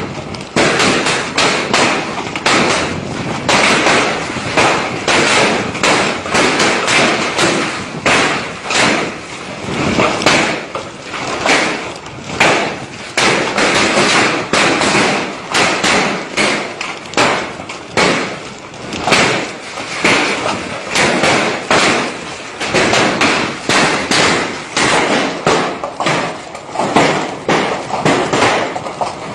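Hailstorm: a dense, unbroken clatter of hailstones striking hard surfaces, many impacts a second, with the intensity surging and easing every second or two.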